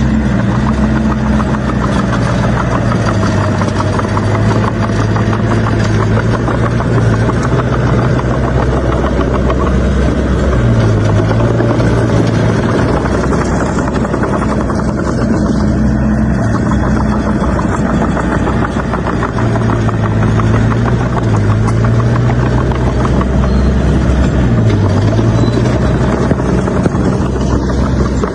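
Heavy diesel engine of a bulldozer working, running loudly and steadily, its low note dropping and rising again several times, with a steady metallic clatter.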